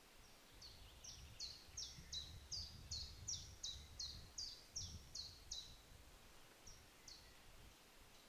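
A bird calling: a run of about a dozen faint, high notes, each falling in pitch, at a steady pace of a little under three a second, then two more after a short pause.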